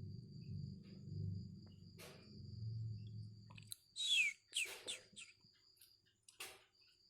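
Sooty-headed bulbul giving two loud, sharply falling calls about four seconds in, over a steady high-pitched tone. A low hum in the first half cuts off suddenly just before the calls.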